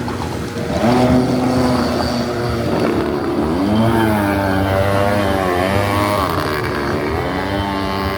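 Small engine of a motosurf (motorized surfboard) running on the water, its pitch rising and falling in waves as the throttle and load change.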